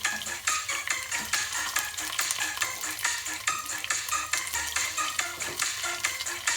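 Breadcrumb-coated chicken bites frying in a pan: a steady sizzle with many short clicks and scrapes of a utensil stirring and turning them.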